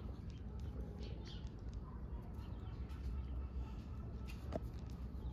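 Faint, scattered bird calls over a steady low rumble of outdoor background noise, with a single sharp click about four and a half seconds in.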